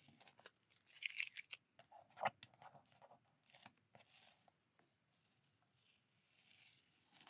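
A painted paper card being peeled off its backing: faint papery crackling and tearing in short bursts, dying away after about four and a half seconds.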